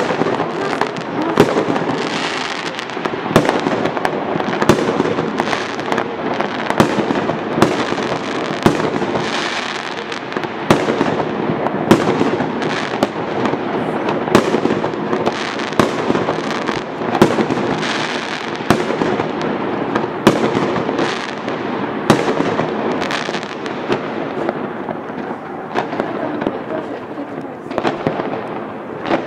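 Many fireworks going off at once: a continuous barrage of sharp bangs, about one or two a second, over a dense crackle of further pops and bursts.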